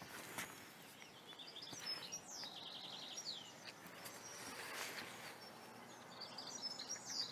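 Songbirds singing faintly in quick trilled phrases with short downward-sweeping notes, twice, over a faint steady outdoor hiss.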